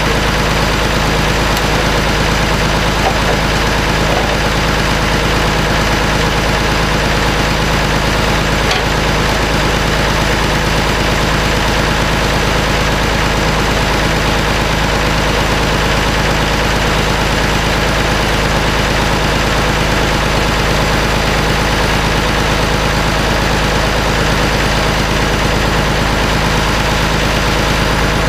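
An engine idling steadily at an even level, with a low hum that pulses in a regular rhythm.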